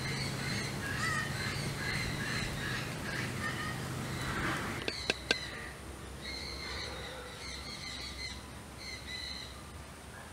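Birds calling over and over in short repeated calls, with two sharp clicks about five seconds in.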